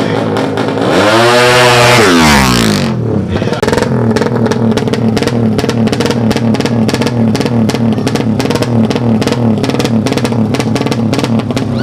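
A four-stroke 200cc underbone drag bike engine revs up sharply in a rising sweep for about two seconds, starting a second in, then cuts off. Rock music with a steady beat plays throughout.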